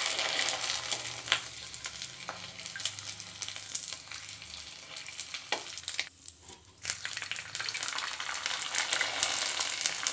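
Sabudana papad frying in hot oil in a metal kadhai, sizzling and crackling, with a few sharp clicks of metal tongs against the pan. The sizzle drops away briefly about six seconds in, then comes back strongly.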